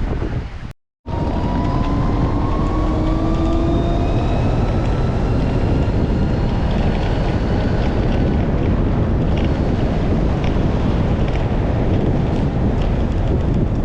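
Wind buffeting the microphone while riding, a loud steady rush, with an engine note rising in pitch as the vehicle speeds up over the first few seconds. The sound cuts out completely for a moment just under a second in.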